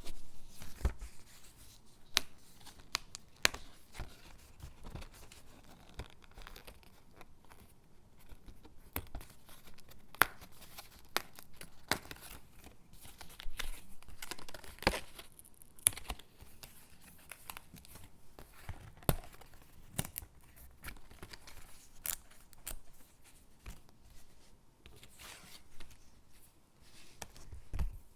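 Stickers being peeled off their backing sheet and pressed onto gingerbread cutouts: soft peeling and paper crinkling with many small, irregular clicks and taps.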